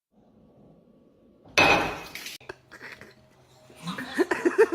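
A sudden loud crash with a glassy, dish-like clatter, as of things knocked over and falling, followed by a few lighter clinks. Near the end a person's voice starts in quick, repeated short bursts.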